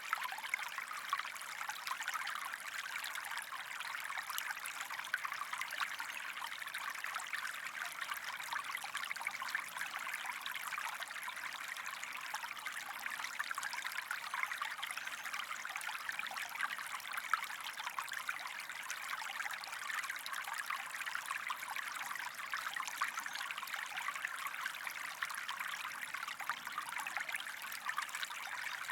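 Small stream running steadily, a continuous fine trickling wash of water.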